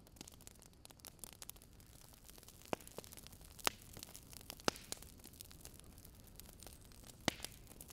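Small driftwood campfire crackling: irregular sharp pops and snaps, four of them louder than the rest, over a faint steady hiss.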